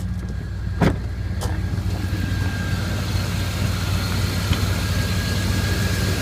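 1999 Dodge Ram 1500's 5.2-litre Magnum V8 running steadily, with one sharp click about a second in. From about two seconds in, a steady hiss builds over the engine.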